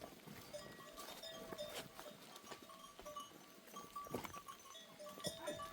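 A flock of goats and sheep, the bells on the animals clinking faintly and irregularly, with scattered small knocks.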